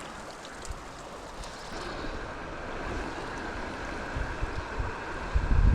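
Creek water running steadily, with wind buffeting the microphone in low gusts that grow stronger near the end.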